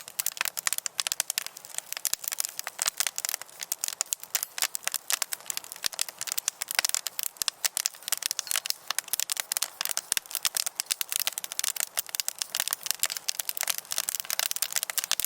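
Burning firewood crackling, a dense, rapid, irregular run of small pops and snaps.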